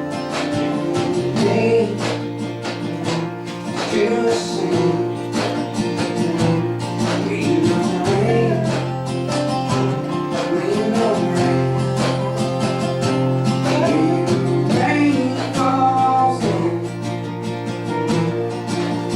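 Acoustic country band playing live: strummed acoustic guitar with a voice singing over it.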